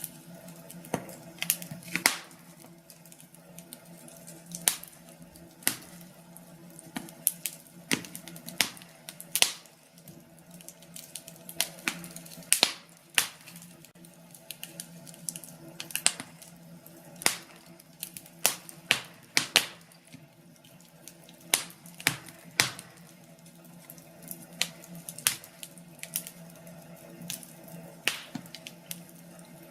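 Wood fire crackling and popping in a fireplace: irregular sharp snaps, some louder than others, over a faint steady low hum.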